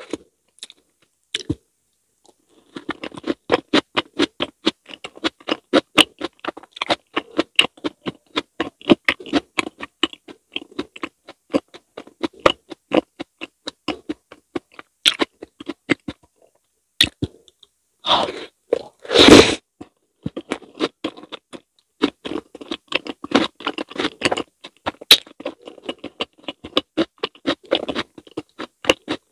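Close-miked wet chewing of soft fruit mochi with whipped cream: rapid, sticky mouth clicks and smacks. About 18 to 19 seconds in, a short loud hiss of whipped cream sprayed from an aerosol can.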